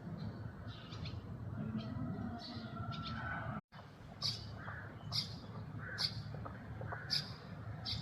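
Bird calls: short high chirps over a steady low hum, then, after a brief dropout a little past halfway, a call repeated about once a second.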